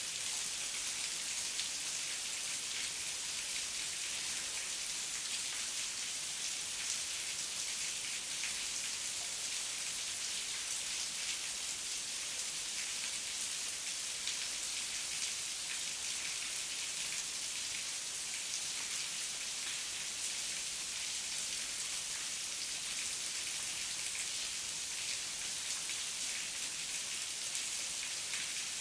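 Steady heavy rain, a dense, even hiss of many drops pattering on surfaces.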